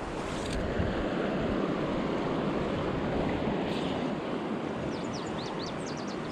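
Creek water rushing steadily over rocks, with a few faint high chirps about five seconds in.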